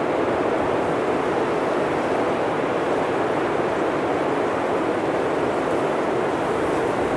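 Blizzard wind blowing steadily, a dense even rush of noise with no gusts standing out.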